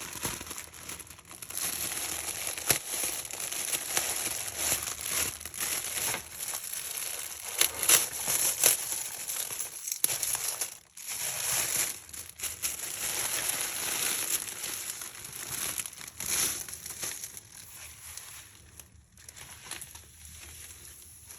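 An iridescent package being handled and opened, its wrapping crinkling and rustling in irregular bursts with a few sharper crackles, loudest about a third of the way in and quieter near the end.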